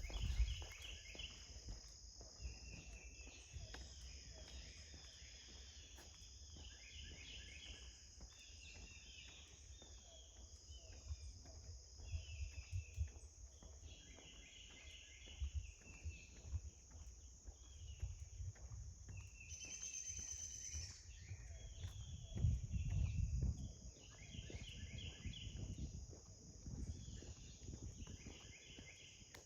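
Outdoor insect chorus: a steady high-pitched drone of crickets under short, repeated chirping phrases every second or two, with irregular low rumbles underneath.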